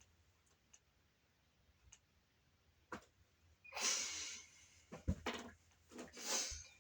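Cracked bowling ball making popping noises: a sharp click about three seconds in and a sharper pop just after five seconds, with short rough hissing noises in between.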